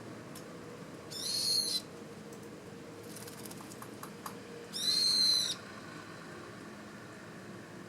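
Two drawn-out, high bird calls, each just under a second long and steady in pitch, about three and a half seconds apart.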